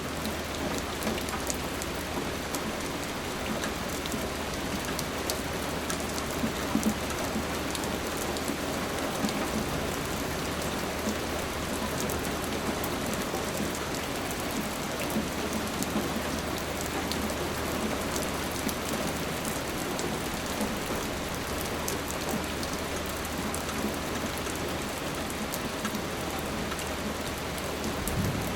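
Steady rain falling, with many close, sharp drop clicks over an even hiss and a low steady hum underneath.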